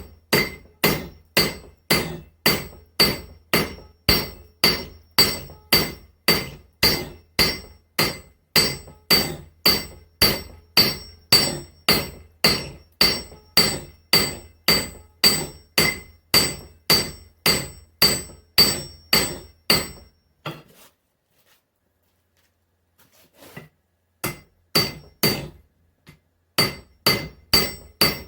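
Blacksmith's hand hammer striking hot spring steel on an anvil at a steady pace of about two blows a second, each blow followed by a ringing anvil tone. The steel is being drawn out into a bevel for an axe's cutting edge. The hammering stops for about four seconds about two-thirds of the way through, then starts again.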